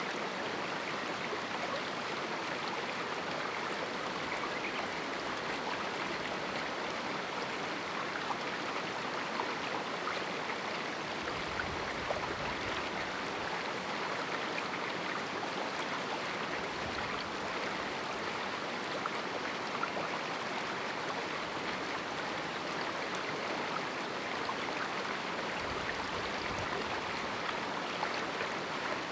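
Canyon river flowing steadily, an even rush of moving water with no change in level.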